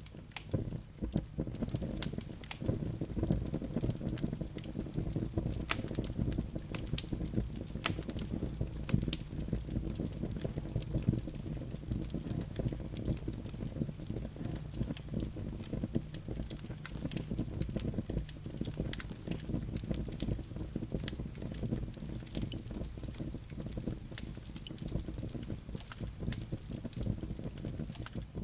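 Wood fire burning in a fireplace: a steady low rumble of flames with frequent, irregular sharp crackles and pops from the burning logs and embers.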